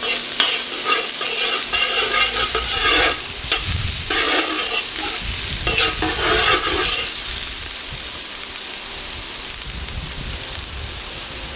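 Onion sizzling as it fries in hot oil in a pot, with repeated stirring strokes scraping the pot over the first seven seconds or so.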